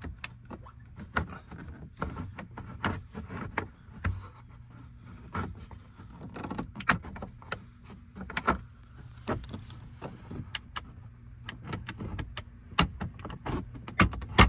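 Irregular sharp clicks and knocks of plastic pry tools working against plastic dashboard trim, with a low steady hum underneath.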